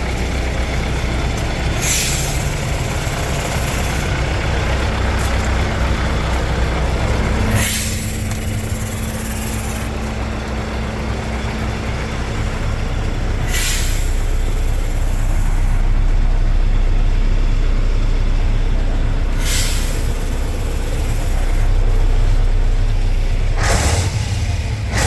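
Scania R143's V8 diesel engine idling steadily, with five short hisses of compressed air from the truck's air brake system spread about six seconds apart.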